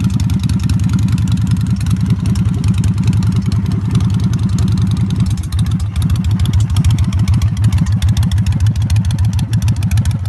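Victory Hammer S V-twin motorcycle engine running steadily with a fast, even exhaust beat.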